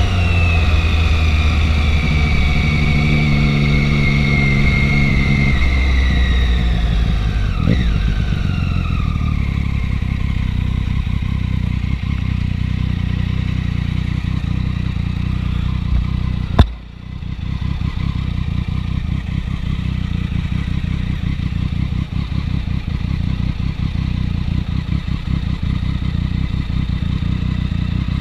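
Triumph 675 three-cylinder motorcycle engine, its note falling as the bike slows over the first ten seconds, then settling to a low steady rumble. A single sharp knock comes a little past halfway.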